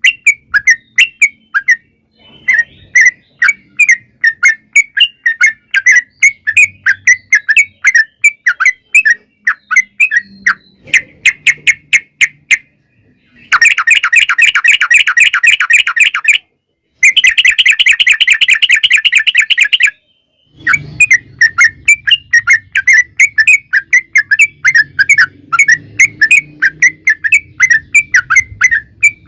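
Yellow-vented bulbul (trucukan) singing a rapid chattering song of sharp notes repeated several times a second. Two long, very fast trills (the 'ropel') come about halfway through, one after the other, with brief pauses around them.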